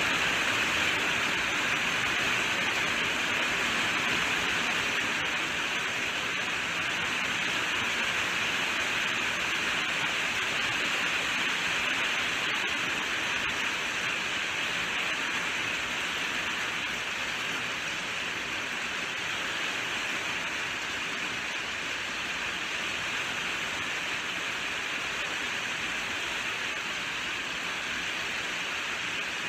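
Steady rainfall: an even, continuous hiss of heavy rain with no distinct drops standing out, easing very slightly over the stretch.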